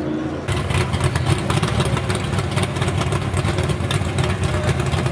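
Big-block 500-cubic-inch stroker V8 of a Plymouth Cuda drag car idling, with a rough, uneven beat held at a steady pitch, starting about half a second in.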